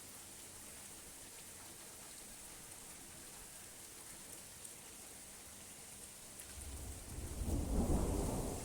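Steady rain falling, with a rumble of thunder swelling in about two-thirds of the way through and peaking near the end.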